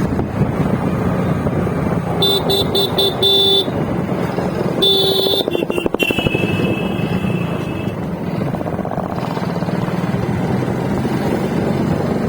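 A motor vehicle engine running steadily while vehicle horns honk: a few short toots about two seconds in, a longer honk about five seconds in, and a higher steady horn tone lasting about two seconds after that.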